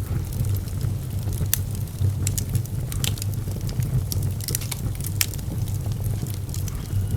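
Fire burning in a fireplace: a steady low rumble of flames with irregular sharp crackles and pops, several a second at times.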